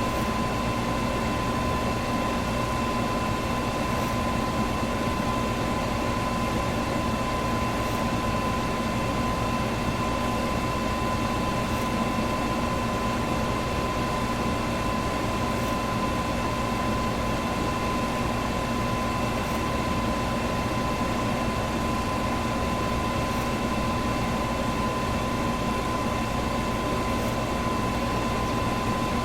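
Electric fan running steadily: a constant rush of moving air with a steady motor hum and whine.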